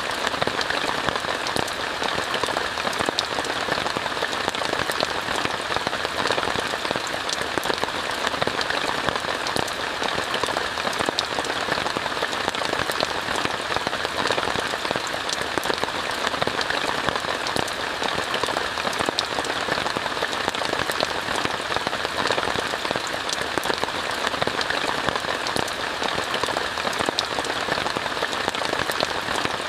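Steady rain falling on a tent, a dense, even patter of many separate drops that keeps up without change.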